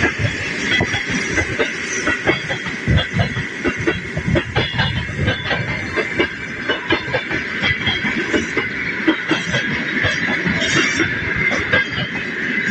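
Passenger train running on rails: wheels knocking and clicking irregularly over the track, over a steady high-pitched whine.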